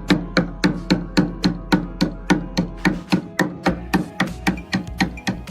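Rapid, evenly spaced knocks, about five a second, over a low steady hum.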